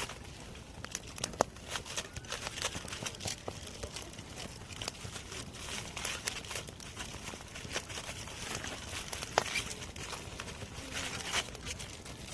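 Campfire crackling: irregular snaps and pops of burning wood over a low steady hiss, with a couple of sharper pops about a second and a half in and near nine seconds.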